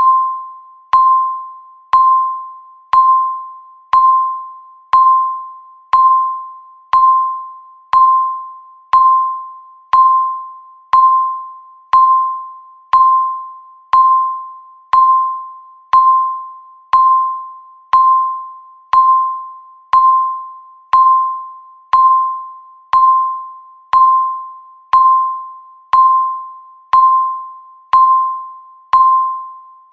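Countdown timer's electronic beep sounding once every second, an even run of short single-pitched tones, each starting sharply and fading quickly.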